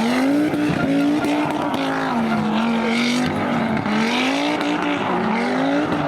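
Rally car engine running hard under throttle, its pitch rising and dropping several times as the driver comes on and off the throttle.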